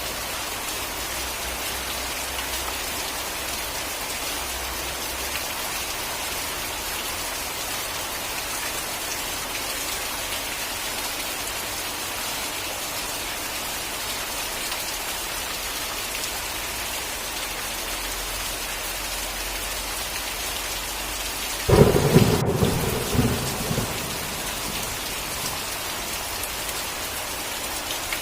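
Steady heavy rain falling, with one sharp thunderclap about three-quarters of the way through that rumbles and dies away over a couple of seconds.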